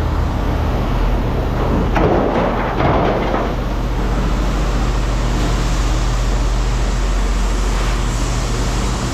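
An engine running steadily with a low, even hum, and a couple of louder rattling noises about two to three seconds in.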